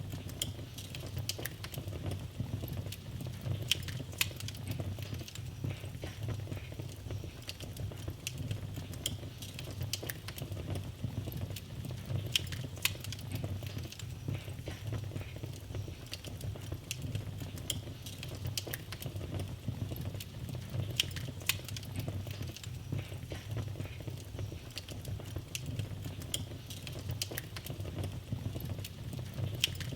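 Wood fire burning in a fireplace: a low, steady rumble of flames with frequent small, irregular crackles and pops.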